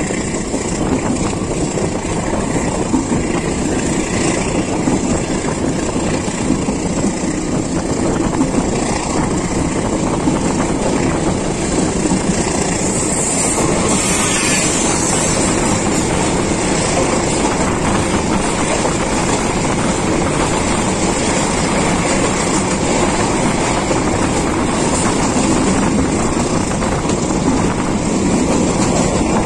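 Steady running noise of a passenger train at speed, with wheels rumbling on the rails and rushing air. About 13 seconds in, an oncoming diesel-hauled freight train passes close alongside on the next track with a brief hissing rush, and its container flat wagons keep rolling past to the end.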